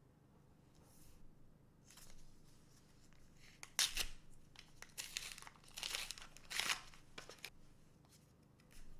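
Trading card booster pack wrapper being torn open and crinkled in a few quick rips, the loudest about four seconds in and again near seven.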